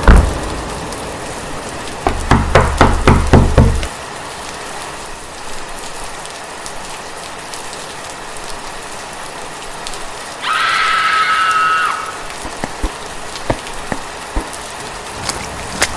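Steady rain-like hiss, with a hard hit at the very start and a rapid run of about seven heavy knocks around two to four seconds in. Near the middle a pitched tone sounds for about a second and a half, then scattered light taps follow.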